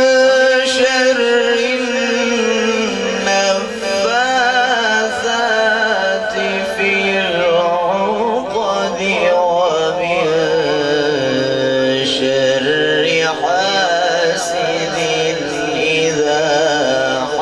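A man reciting the Quran in the melodic tajweed style: a long held note at the start, then slow, ornamented phrases that waver up and down in pitch.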